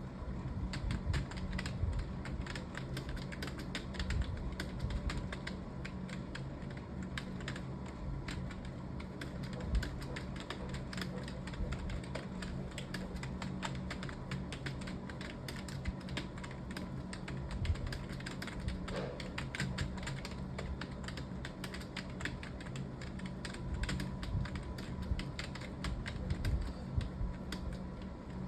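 Continuous fast typing on a computer keyboard: a dense, unbroken run of key clicks, over a low steady hum.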